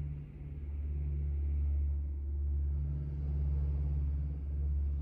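A steady low rumble or hum, swelling and easing about once a second.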